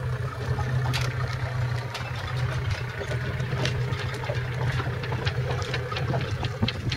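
Boat engine running steadily at low revs, with scattered short sharp knocks and splashes over it.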